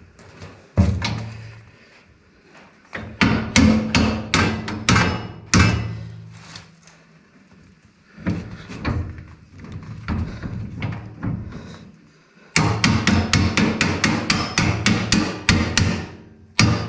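Hammer blows driving a bolt through a spacer on a 3-point hitch brush cutter. Single strikes and short runs come first, then a fast run of about five blows a second near the end, each blow with a brief ring.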